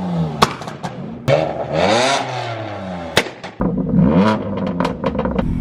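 Car engines revving in a run of quick cuts, the engine pitch climbing and falling several times, with sudden sharp clicks where the clips join.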